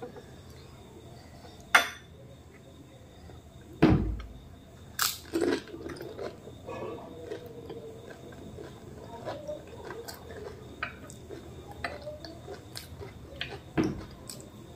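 Close-miked eating of phuchka (pani puri): crisp fried puri shells crunching as they are bitten, followed by wet chewing with many small clicks. There are loud sharp cracks about two and four seconds in, a pair of crunches just after five seconds, and another loud crack near the end.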